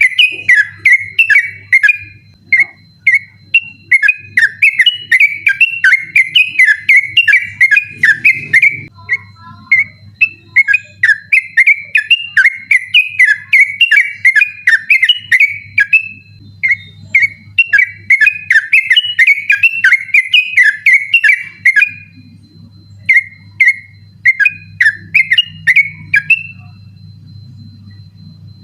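Yellow-vented bulbul (trucukan) singing a fast, insistent string of rich whistled notes in the rapid 'ropel' style, in long runs with brief breaks, falling silent about two seconds before the end. A steady low hum runs beneath.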